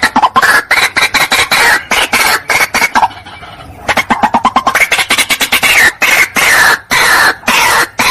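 White-breasted waterhen calling: rapid, harsh, repeated notes, several a second. They break off for about a second near the middle, then resume as longer notes that fall in pitch. This is a recorded lure call.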